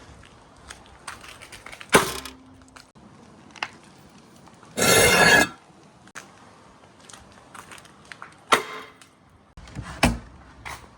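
Marbles rolling down the slopes of a marble run: a faint rolling rumble with scattered sharp clacks as they drop and hit the track. About five seconds in comes a loud, brief rattling clatter.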